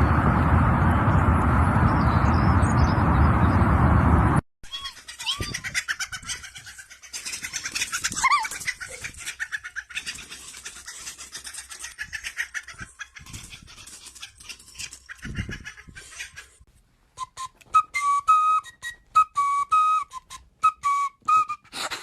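A loud, steady rushing noise that cuts off abruptly after about four seconds, then scattered clicks and a bird's short chirps, becoming a quick run of clear chirps near the end.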